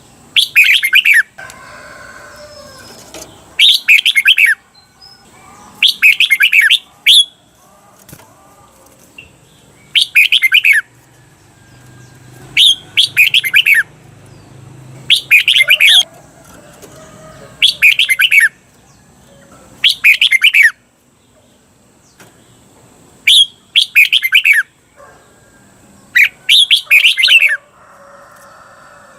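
Red-whiskered bulbul singing loud, short, warbled phrases repeated every two to three seconds: the doubled 'double' (เบิ้ล) song that keepers play to teach caged bulbuls.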